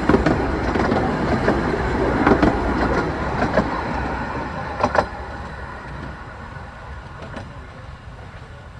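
15-inch gauge miniature railway train running past, wheels clicking over the rail joints, the rumble fading away from about five seconds in.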